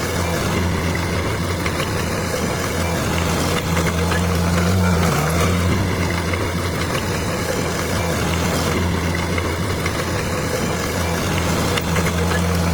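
Bulldozer's diesel engine running steadily, its pitch dipping briefly about five seconds in.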